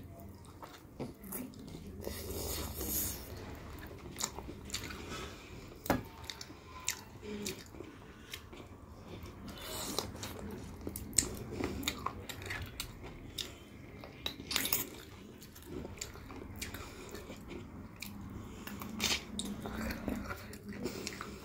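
Close-miked eating: biting into a chicken drumstick and chewing chicken and rice, with many short, sharp wet mouth clicks and smacks.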